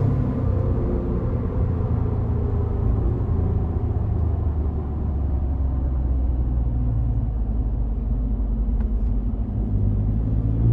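Exhaust of a 2018 Ford F-150's twin-turbo 2.7 EcoBoost V6 through an MBRP straight-through dual exhaust with the resonator deleted: a steady low rumble that eases off in the middle and builds again near the end.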